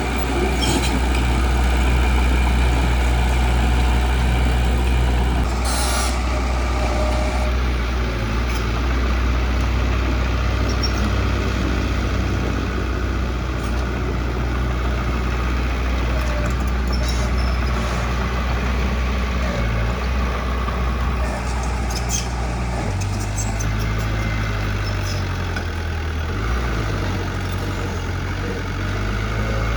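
Heavy diesel engine of road-construction machinery running steadily with a deep drone, its pitch shifting a little past the twenty-second mark. Short air hisses break in several times, the clearest about six seconds in, like a truck's air brakes releasing.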